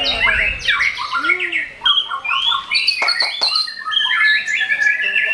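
White-rumped shamas (murai batu) singing in competition: a dense, fast run of varied whistles, trills and harsh notes, with a burst of sharp clicks about three seconds in.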